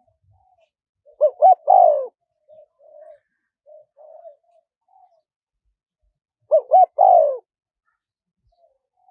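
Spotted dove cooing: two loud phrases about five seconds apart, each of two quick short notes followed by a longer falling coo, with softer short coos in between.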